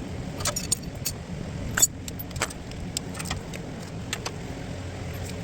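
Metal tools and parts clinking: about a dozen light, irregular clicks over a steady low hum.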